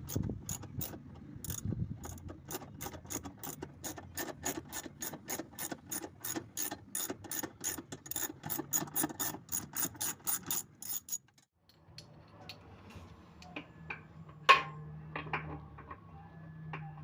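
Ratchet wrench clicking in a quick even run, about four clicks a second, for some eleven seconds, then stopping. After that a low hum and a few light knocks, one of them sharp and loud.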